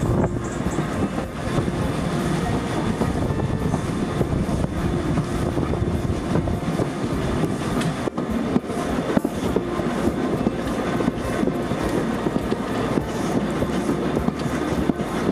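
Steam-hauled passenger train running steadily, its carriage wheels rumbling and clicking over the rail joints, heard from an open carriage window.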